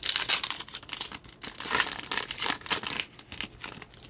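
Plastic foil wrapper of a trading card pack being torn open and crinkled, an irregular run of crackling and rustling that dies away near the end.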